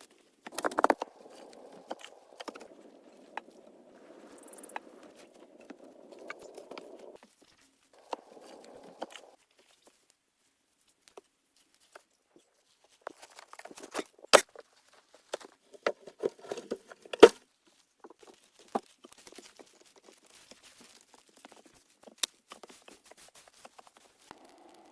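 Hand-work sounds: scattered sharp knocks and clicks, with soft scraping in the first third and the two loudest knocks about two-thirds of the way through.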